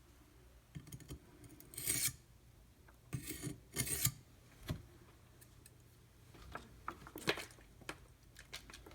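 D2 steel knife blade scraped across a coarse 150-grit oil stone in a handful of separate rasping strokes, with a few softer irregular rubs near the end.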